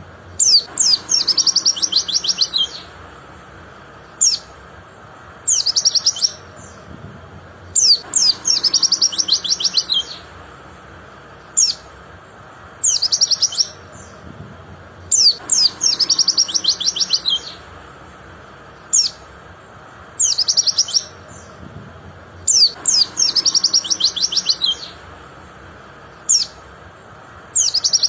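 White-eye (pleci) song: a brief call, then a rapid chattering run of high notes lasting about two seconds, followed by a few single chirps. The same phrase repeats about every seven seconds, four times in all.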